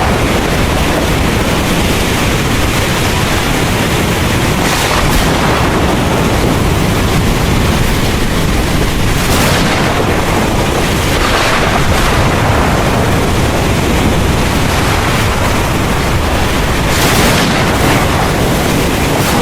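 Heavy rain pouring steadily with a deep, continuous rumble of thunder underneath. Brief swells of louder hiss come and go four times, about a quarter of the way in, around the middle and near the end.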